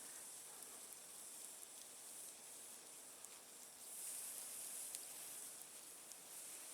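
Campfire burning low on hot coals, a faint steady hiss with a few small crackles, a little louder in the middle.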